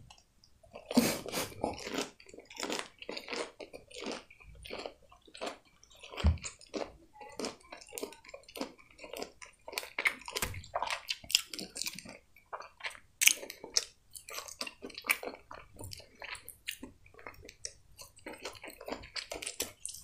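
A person chewing a mouthful of breaded fried food close to the microphone: a dense, irregular run of short clicks and mouth sounds, several a second.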